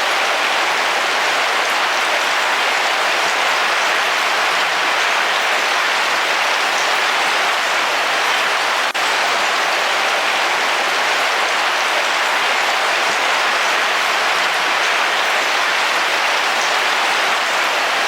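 Heavy rain falling steadily, an even dense hiss of drops with one very brief dip about halfway through.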